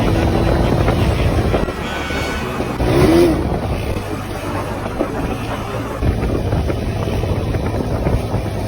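Honda CG125 motorcycle's single-cylinder engine running. It eases off about two seconds in, swells briefly around three seconds, and picks up again about six seconds in.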